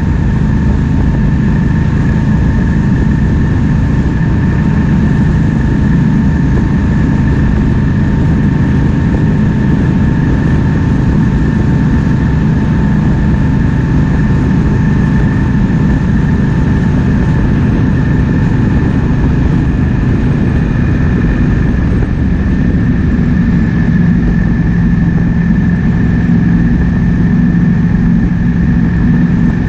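Triumph Speed Twin 1200's parallel-twin engine running at a steady cruise, mixed with wind rushing over the microphone, and a faint steady high whine above it.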